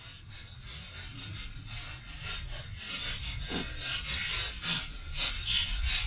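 Rasping scrapes and rubbing from small die-cast toy monster trucks against a rough surface, growing busier and louder toward the end.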